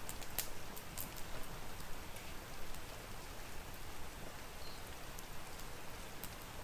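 Steady rain hiss with the sharp, scattered pops of a crackling wood fire, several in the first second and a half and a few more near the end.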